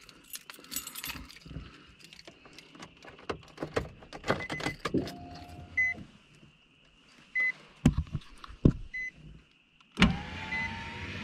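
Scattered clicks and knocks, with a faint short beep repeating about every second and a half. About ten seconds in, the 2008 Nissan 350Z's newly installed driver's-side power window motor starts running with a steady whine, and the replacement motor works.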